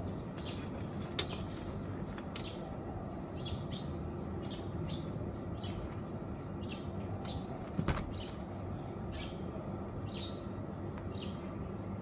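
Small birds chirping repeatedly, short high notes about one or two a second, over a steady background hum. Two sharp clicks sound, one about a second in and one near eight seconds.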